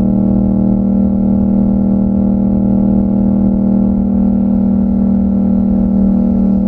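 Yamaha MT-07's 689 cc parallel-twin engine running at a steady speed through an Akrapovic exhaust, its note holding one even pitch while cruising.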